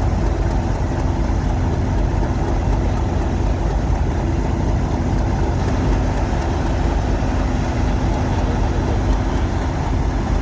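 A train's engine running steadily: a deep rumble with a steady hum over it.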